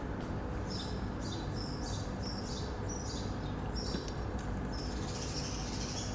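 Short high chirps repeating about twice a second, like small birds tweeting, over a steady low rumble with a faint hum.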